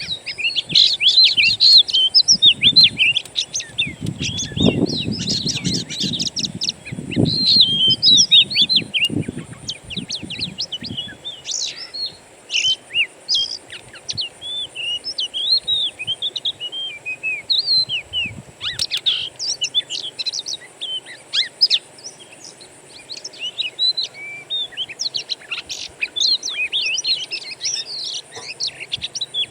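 Dense wild birdsong: many quick chirps and short trills overlapping without a break. A low rumble runs under it for several seconds in the first half.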